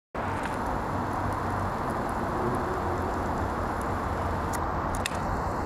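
Steady low drone and rushing noise of a High Speed Train's class 43 diesel power car approaching, holding an even level, with two faint clicks near the end.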